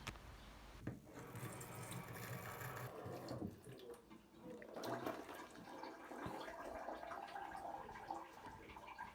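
Water running from a tap into a sink, in two stretches with a short break between them.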